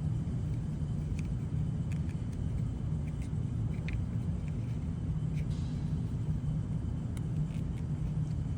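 Steady low rumble, with scattered light clicks and taps of plastic parts as a side-mirror camera cover piece is handled and pushed against the mirror housing.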